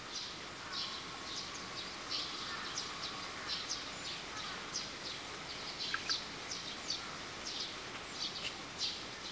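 Small birds chirping: short, high calls come irregularly, about three a second, over a faint steady hiss.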